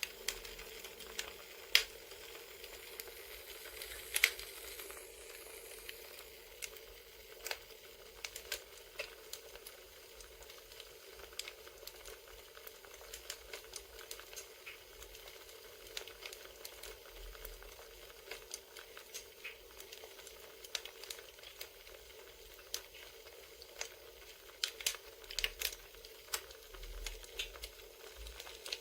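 Campfire crackling: irregular snaps and pops over a steady soft hiss, with a couple of sharper pops about two and four seconds in and a denser run of crackles near the end.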